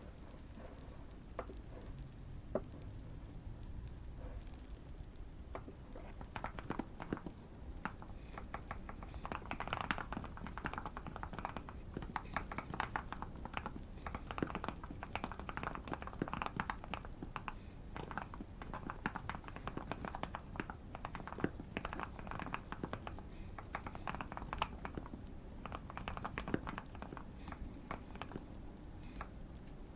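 Typing on a Keychron Q1 mechanical keyboard with Fierce Girl switches and tape and foam mods: dense runs of keystrokes starting about six seconds in, with a few scattered clicks before. A light fireplace crackle sits underneath.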